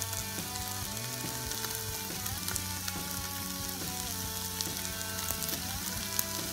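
Rice, chicken and onion sizzling steadily in a frying pan, with fine crackling, as raw white fish cubes are added. Background music with a slowly changing melody plays under it.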